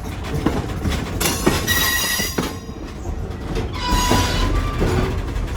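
Steel passenger-train wheels squealing against the rails, one high squeal about a second in and another around four seconds in, over the steady rumble and clicks of the wheels on the track.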